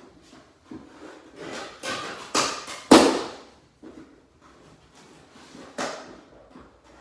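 Cardboard box being handled and opened: a run of rustling and scraping, with a sharp knock about three seconds in and a shorter one near the end.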